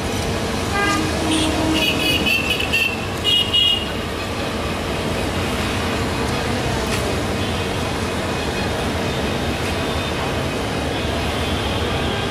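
Passenger train coaches rolling slowly over station points, with a diesel locomotive's engine running steadily. Between about one and four seconds in, a few short high-pitched toots sound.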